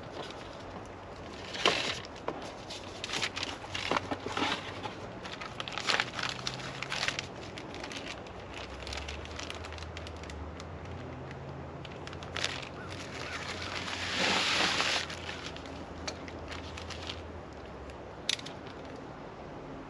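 Packaging being handled during an unboxing: crinkling and rustling of wrapping with scattered clicks and knocks, and a longer stretch of rustling about fourteen seconds in.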